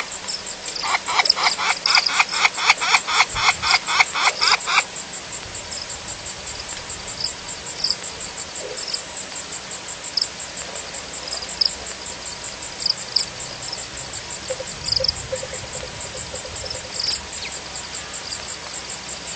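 Frogs and insects calling together: one frog gives a rapid train of pulses, about five a second, for about four seconds near the start, over a steady high insect trill with recurring chirps.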